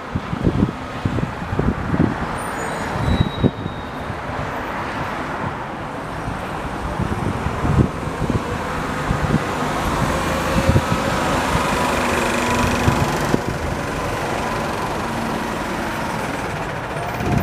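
Rumble of passing motor traffic that swells to its loudest around the middle and then eases off, with gusty wind buffeting the microphone throughout.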